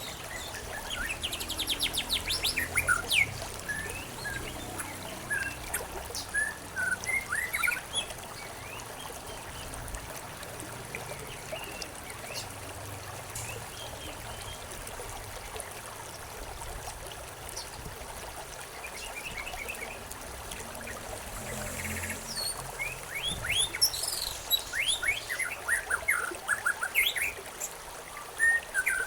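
Several small birds chirping and trilling in quick bursts over a steady trickle of running water; the birdsong comes in two busy spells, near the start and again in the last third, with a quieter stretch of water between.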